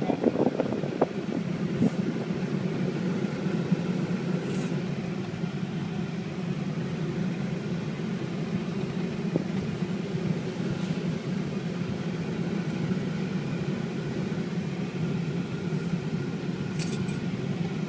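Work truck heard from inside the cab while driving: a steady low drone of engine and road noise, with a few small clicks and knocks in the first two seconds.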